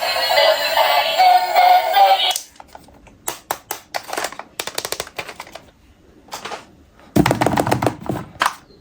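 Background music with synthesized singing stops abruptly about two seconds in. Then comes a run of sharp clicks and rattles from plastic toys and packaging being handled, with a louder, fuller clatter about seven seconds in.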